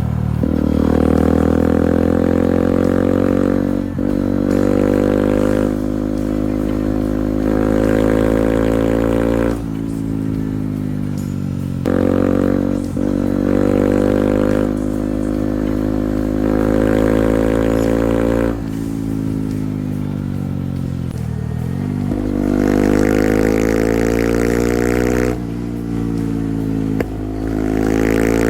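Beta 125 motorcycle engine accelerating through the gears, its pitch climbing over a few seconds and then dropping sharply at each shift or throttle-off, several times over, with a few lower steadier stretches of cruising in between.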